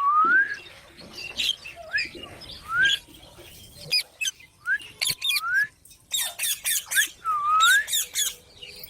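Green parrots chirping: a string of short whistled calls that sweep up and down in pitch, a couple a second, with scratchy higher squawks and small clicks about six to seven seconds in.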